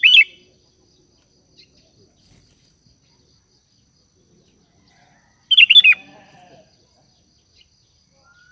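Sooty-headed bulbul giving short, loud phrases of quick falling chirps, once at the start and again about five and a half seconds in: its call to companions.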